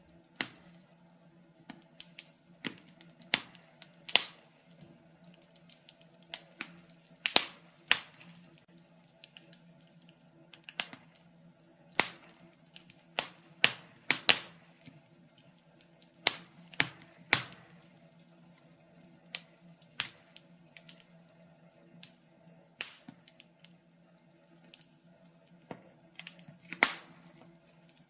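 Wood fire crackling in a fireplace: irregular sharp pops and snaps, some louder than others, scattered every second or so over a faint steady hum.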